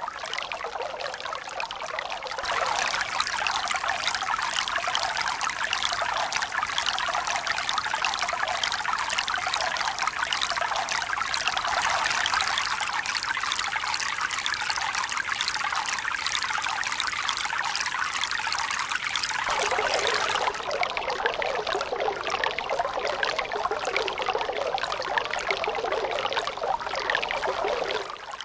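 Running water splashing and pouring steadily. The sound changes abruptly, growing fuller and brighter about two seconds in, shifting again around twenty seconds, and dropping just before the end, as if one water recording cuts to another.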